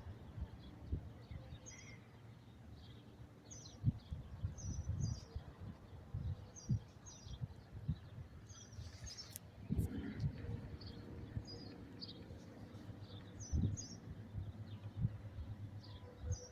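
Small birds chirping, short high chirps repeating every second or so, over low rumbles and thumps on the microphone.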